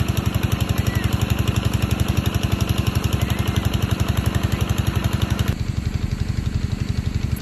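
A small engine running steadily with an even, rapid chugging. About five and a half seconds in, the upper part of the sound changes abruptly while the engine carries on.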